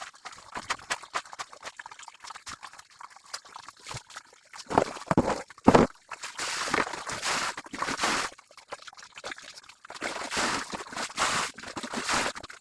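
Water splashing and pouring in uneven bursts, with scattered knocks, as laundry is washed by hand.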